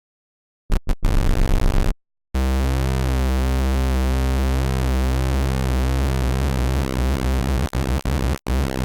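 Sylenth1 software synth playing a square-wave lead, built from two sawtooth oscillators with one inverted and its pulse width set by oscillator B2's phase. A few short stabs come first, then from about two seconds in a sustained run of stepping notes with a strong low end and a couple of brief cut-outs near the end.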